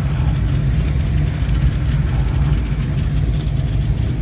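Car engine idling with a steady low rumble, not revving.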